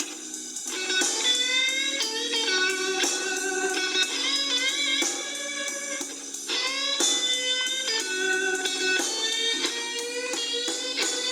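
Electric blues guitar playing a slow-blues instrumental intro, with several bent notes that slide up in pitch.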